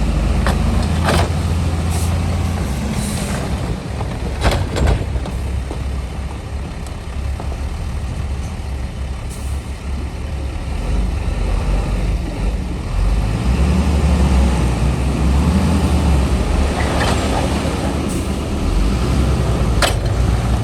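Heavy diesel earthmoving machinery running, its low engine note rising and falling, with a few sharp metallic clanks and knocks.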